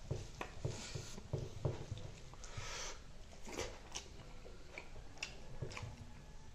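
Close-miked wet chewing and lip-smacking while eating spicy chicken wings by hand, with many small mouth clicks and a couple of short breathy hisses.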